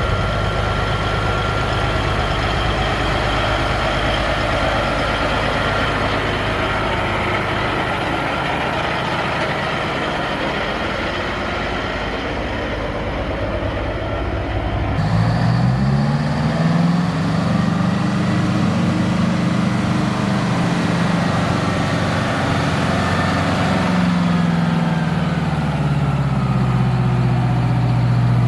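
Heavy diesel truck engines running. About halfway through, one engine's note climbs in pitch, holds, then drops back to a lower steady idle near the end.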